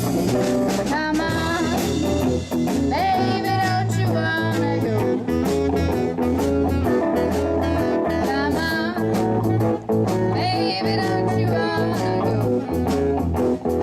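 Live blues played by a band: drums keeping a steady beat, bass, and guitar, with a lead melody line bending in pitch over the top.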